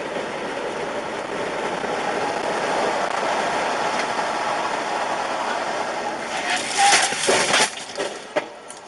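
Steady road and vehicle noise from a car in motion. Then, about six and a half seconds in, a run of loud bangs and crunches lasting around two seconds: a car crash.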